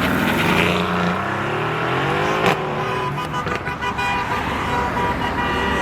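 Performance car engine revving as the car drives past, its note climbing in pitch over the first couple of seconds, then running on.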